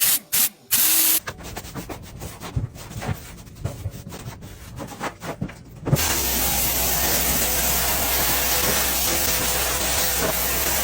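A few quiet clicks and knocks, then about six seconds in a vacuum cleaner switches on and runs with a steady rushing hiss over a low motor hum.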